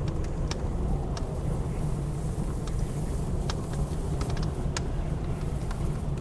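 Wood fire in a fireplace crackling, with sharp pops scattered irregularly, over a steady low rumble of blizzard wind.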